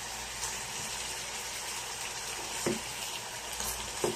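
Raw chicken pieces with garlic and onion frying in oil in a wok, sizzling steadily as they brown. Two light knocks of the slotted spatula, one past halfway and one at the end.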